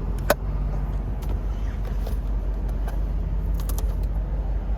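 Mercedes-Benz 560SL V8 engine running steadily, a low even hum, with a sharp click about a third of a second in.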